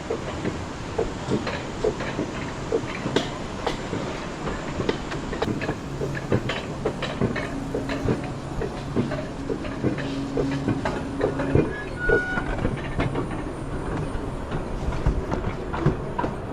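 Alpine coaster cart rattling on its metal rail track, with a steady run of irregular clicks and knocks. A low steady hum joins in from about the middle and cuts off a few seconds later.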